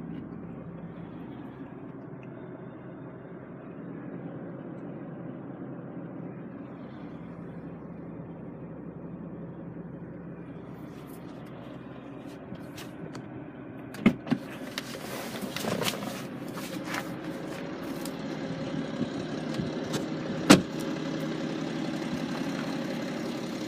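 Steady low hum of the BMW 330d's diesel engine idling, heard from inside the car. A few sharp clicks and knocks break in during the second half, the loudest one near the end.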